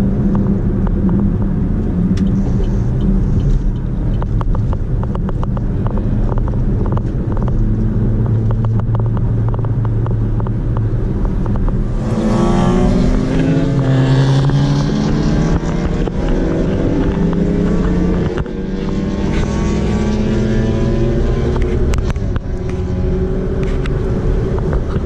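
Car engine and road noise heard from inside a moving car with a window down. About twelve seconds in, an engine revs up hard and its pitch rises, drops back briefly around eighteen seconds, then rises again.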